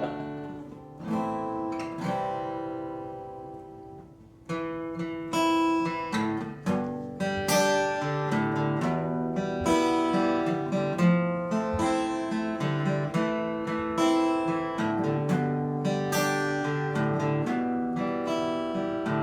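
Alvarez acoustic guitar played in chords, with no singing. A chord rings and fades for a few seconds, then steady playing picks up about four and a half seconds in and continues.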